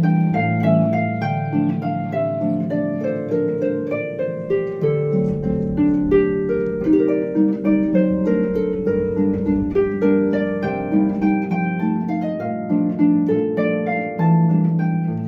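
Solo harp music: a flowing run of plucked notes over held low bass notes.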